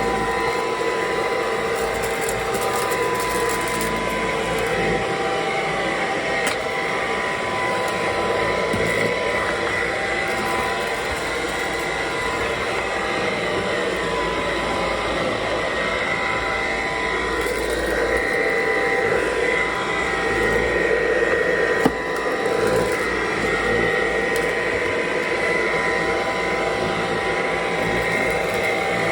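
Bissell Pet Slim cordless stick vacuum running steadily: a constant motor whine over rushing air as it is pushed over the floor, with one short knock about 22 seconds in.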